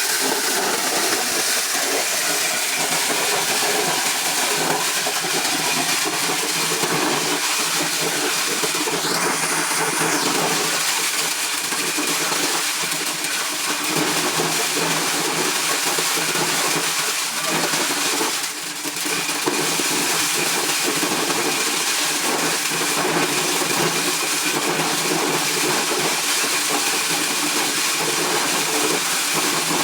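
Corn-shelling machine running steadily: a constant dense rushing noise over a low motor hum, with a brief dip about two-thirds of the way through.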